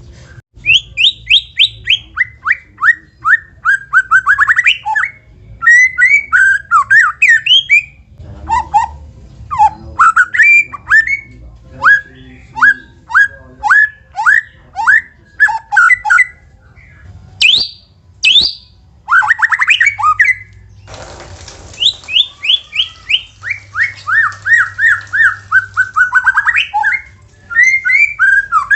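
White-rumped shama (murai batu) singing loudly in rapid phrases: fast series of sharp repeated notes, many sliding down in pitch, with brief pauses between phrases.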